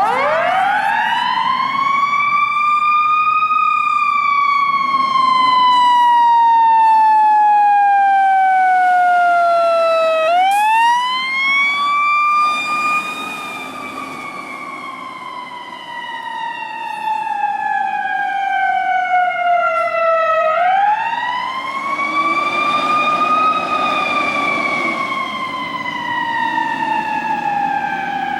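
Fire engine siren in a slow wail. It switches on at the start and climbs quickly, then falls slowly, with each rise-and-fall taking about ten seconds, three times over.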